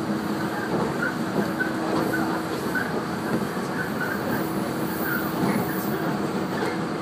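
Shinano Railway 115-series electric multiple unit running at speed, heard from inside the carriage: a steady rumble of wheels on rail, with a low steady hum under it and faint small squeaks.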